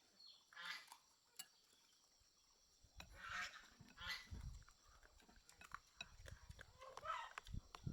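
A few short calls from farm animals, spaced a second or more apart, with low bumping and rumbling noises in between.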